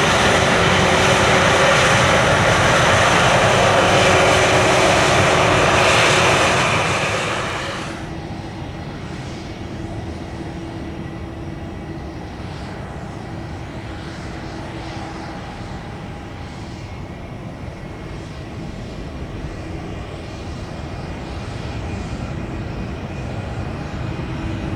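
Airliner engines, loud and close for about seven seconds, then falling off sharply to a quieter, steady engine rumble with a faint held tone.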